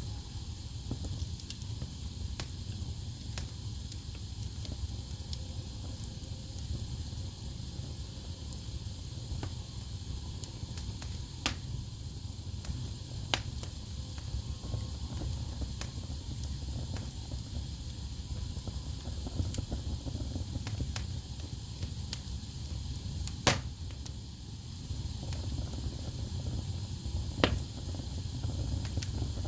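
Wood fire burning in a fireplace: steady crackling over a low rumble, with a few sharp, louder pops, the loudest about two-thirds of the way through.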